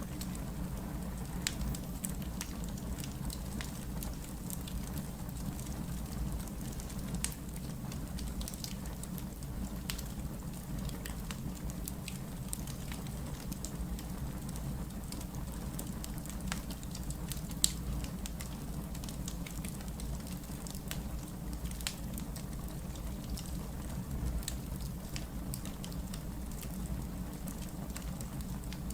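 Crackling wood fire: irregular sharp pops and snaps over a steady low rumble of burning logs, with one louder pop a little past halfway.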